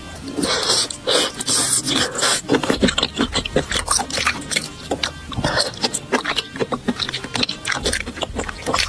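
Close-up wet chewing and lip-smacking on a mouthful of sauce-coated baby octopus, with many quick sticky clicks and a longer wet noisy stretch in the first couple of seconds.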